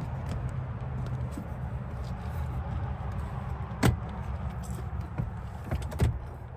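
Steady low rumble of road and engine noise inside the cabin of a moving 2024 Cadillac Escalade with its 6.2-litre V8. Two sharp thumps come through, about four seconds in and again near six seconds, the second the louder.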